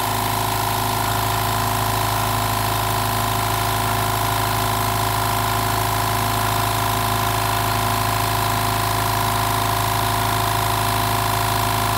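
California Air Tools 8010 oil-free compressor running steadily with an even hum that does not change, its pump filling the empty tank toward the 120 psi cut-off.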